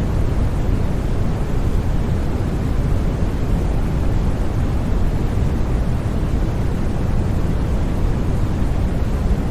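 Steady, unbroken noise from a sleep white-noise track: a deep, even hiss, heaviest in the low end, with no changes.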